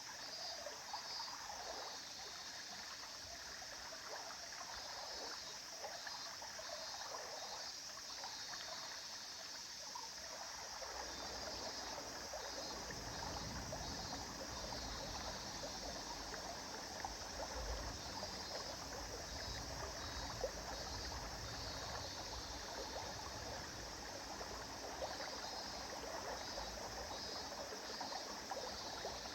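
River water flowing and trickling steadily, with a low rumble joining in about a third of the way through.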